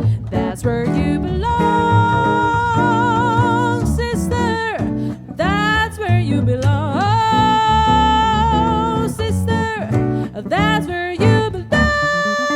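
Jazz vocal trio performing: a female singer holds long notes with vibrato over guitar and plucked double bass. Near the end the voice stops and guitar chords ring out.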